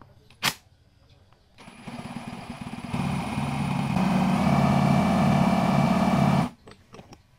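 A sharp click, then a small engine runs, getting louder in two steps as it revs up, and stops suddenly.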